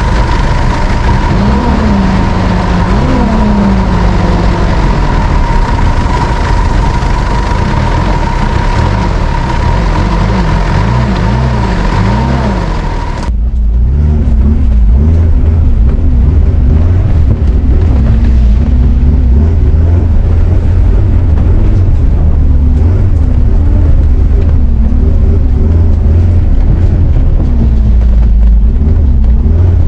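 Mitsubishi Pajero Dakar's engine revving up and down, under a steady high tone. About thirteen seconds in, the sound cuts abruptly to a heavy low rumble with the high end gone.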